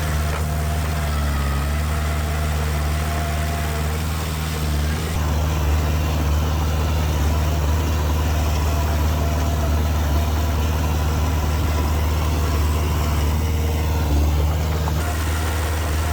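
Heavy diesel engine of earthmoving machinery running steadily with a deep, even drone. From about five seconds in until near the end it runs slightly louder, with a changed tone.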